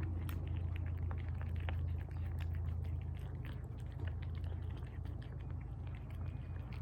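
Cats eating tuna from bowls: irregular wet chewing and licking clicks, many small quick smacks, over a steady low hum.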